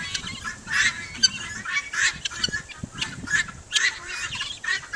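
A flock of domestic fowl calling over one another, a constant din of short, harsh, high-pitched squawks and honks.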